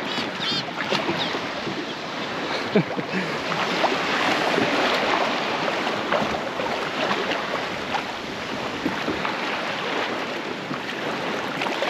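Steady rush of wind and sea water washing, with no single sound standing out.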